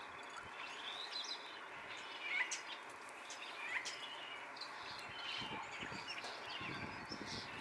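Outdoor ambience with many small birds chirping on and off, over a steady background hiss.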